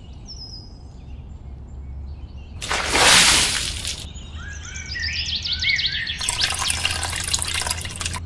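Water splashing and trickling as a small cup dips into a shallow pond, in two noisy spells, the louder one about three seconds in. Small birds chirp in between, over a steady low hum.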